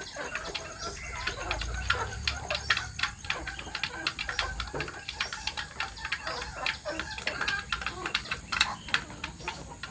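Chickens clucking among many quick, irregular ticks and taps.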